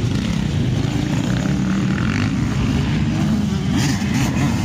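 Several motocross bikes' engines running and revving at once, their pitch rising and falling.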